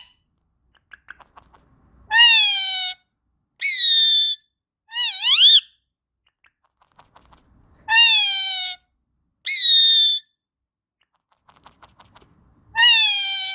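Indian ringneck parrot giving six loud pitched calls, each under a second long, most falling in pitch and one about five seconds in rising sharply, with faint clicking between calls.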